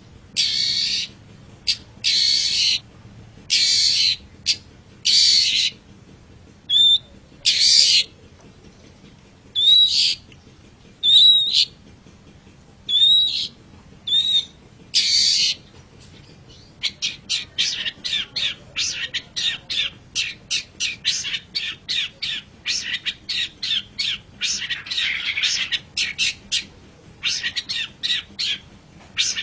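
Long-tailed shrike (cendet) giving harsh screeching calls about once a second, some with a short upward whistle. About 16 seconds in, it breaks into a rapid chatter of short notes, several a second, that runs on.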